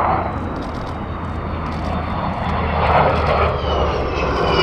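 Avro Vulcan's four jet engines running at full power overhead, with a steady low rumble and a partial Vulcan howl. The howl comes from the aircraft's shared air intakes. Near the end, a high whine glides steadily downward.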